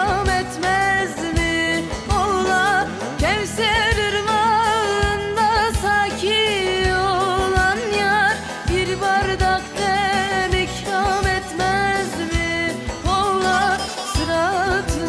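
Turkish folk song (türkü) with a woman singing a melismatic, ornamented melody over instrumental accompaniment with a steady beat.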